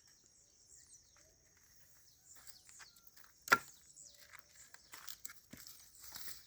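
Quiet outdoor ambience with faint insects chirring, scattered small clicks, and one sharp loud pop about three and a half seconds in.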